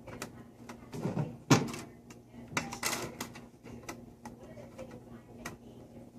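Plastic toy train track pieces clattering and clicking as they are handled and snapped together: a series of irregular sharp clicks and knocks, the loudest about a second and a half in.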